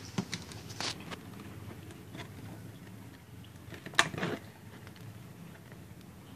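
A few sharp clicks and knocks, like objects being handled, the loudest about four seconds in with a short rattle after it, over a low steady hum.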